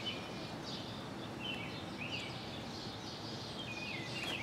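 Small birds chirping in the background: short arched notes repeated every second or so, over a steady low hum of outdoor background noise.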